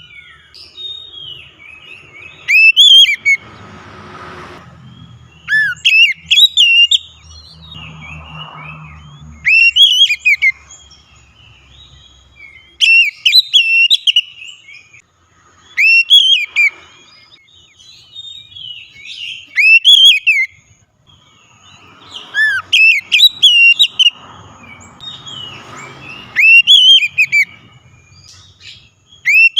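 Oriental magpie-robin (kacer) singing loud, clear whistled phrases with quick up-and-down slurs, a new phrase every three to four seconds.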